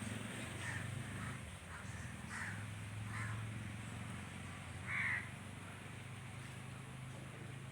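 A bird calling with about four short calls, the loudest about five seconds in, over a steady low hum.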